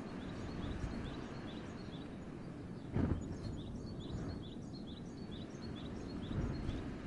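Winter wind gusting in a forest, a low rumble with a stronger gust about three seconds in. A small bird calls over it in a rapid series of short high chirps, a few a second.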